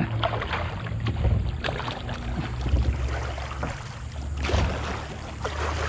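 Kayak paddling: irregular knocks and strokes of the paddle in the water and against the hull, over a steady low rumble of wind on the microphone.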